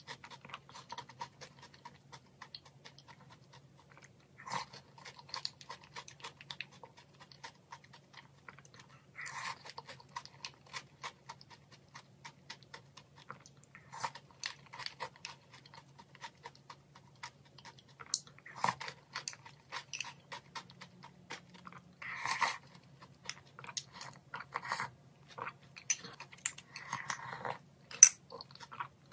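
Close-up crunching and chewing of strawberry Chex Choco cereal eaten by spoon from a ceramic bowl, a run of short, sharp crunches with a louder bite now and then and a sharp click near the end. A faint steady low hum lies underneath.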